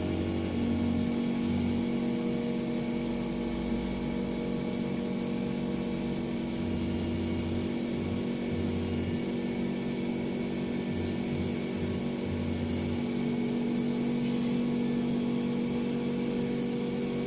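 WDS-620 BGA rework station running with a steady electrical hum carrying several steady tones, while a lower buzz cuts in and out every second or so.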